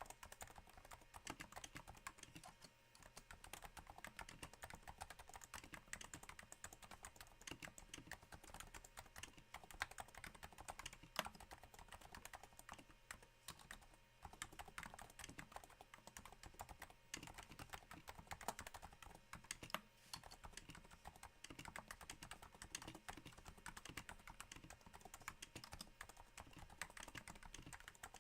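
Steady, fairly slow typing on a Cooler Master Novatouch keyboard with Topre switches damped by Hypersphere silencing rings: a continuous patter of soft, irregular keystrokes, somewhat like rain.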